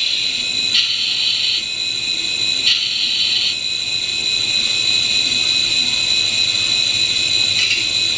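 MRC sound decoder in an N-scale P42 diesel locomotive playing its engine sound through a tiny speaker, with a steady high whine, and two short hissing sound effects, about a second in and about three seconds in.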